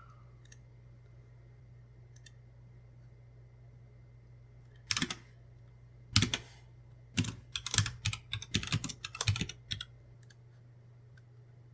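Typing on a computer keyboard: a couple of single keystrokes about five and six seconds in, then a quick run of keystrokes lasting about three seconds, over a faint steady low hum.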